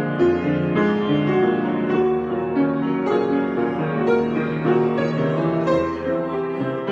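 Piano improvisation: a steady flow of notes with sustained chords in the low and middle range.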